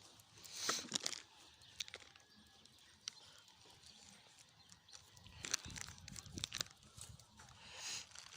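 Small campfire crackling, with dry sticks and leaves crunching and rustling as the wood is handled: scattered sharp pops and louder rustles about a second in and again around six seconds.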